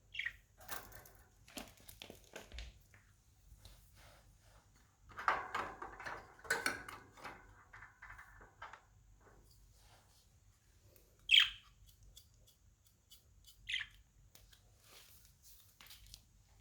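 Pet budgerigars: two short, sharp chirps, a loud one about eleven seconds in and a fainter one a couple of seconds later, with scattered clicks and a busy scratchy patch of sound earlier on.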